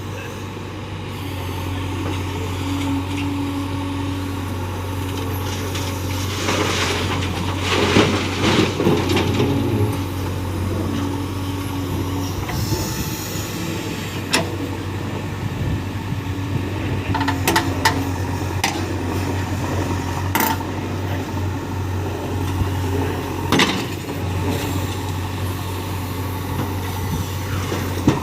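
Excavator's diesel engine running steadily while digging soil, with several sharp knocks and clanks from the bucket and arm.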